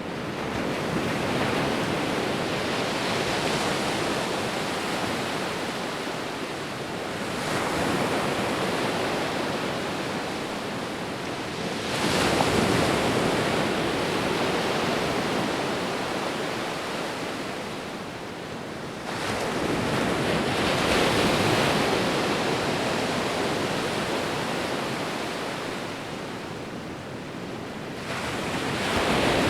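Sea waves breaking and washing in, one surge every five to nine seconds, each rising quickly and then easing off. The strongest surge comes about twelve seconds in.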